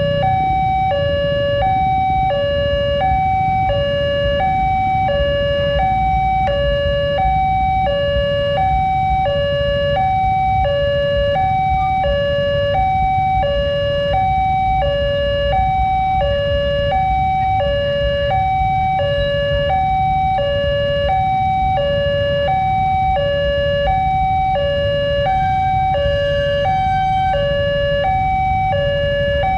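Railway level crossing warning alarm sounding its electronic two-tone signal, a high and a low note alternating evenly about once a second, which warns that a train is approaching and the barriers are closing. Road traffic rumbles steadily underneath.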